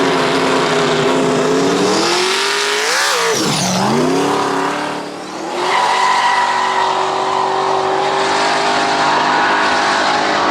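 Pickup truck engine revving hard at a drag run, its pitch climbing steadily, then swinging sharply up and down about three seconds in before settling into a steady high run with a high whine from about six seconds.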